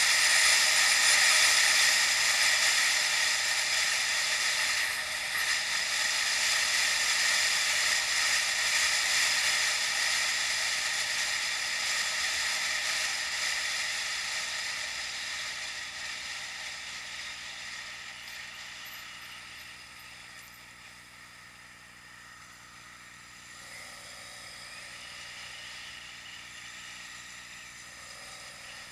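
Wind and road noise from a moving bicycle, a steady rushing hiss that fades gradually over about twenty seconds and then stays low.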